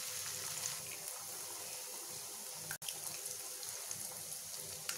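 Chopped onions, chilli and spices sizzling steadily in a hot oiled frying pan as raw eggs are cracked in by hand, with a few faint ticks. The sizzle breaks off for an instant about three seconds in.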